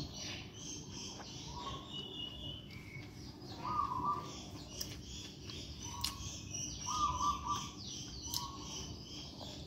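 Birds calling and chirping: a short call repeats every second or two, with higher, thinner chirps over it.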